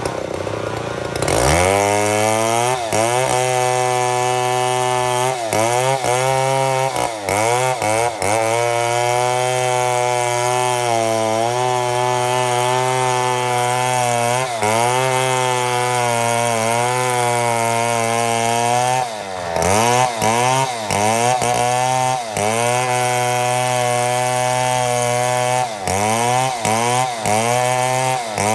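Chainsaw milling a mahogany log: the engine revs up about a second in, then runs at high speed through the cut, its pitch repeatedly sagging and recovering, with one deep dip near the two-thirds mark.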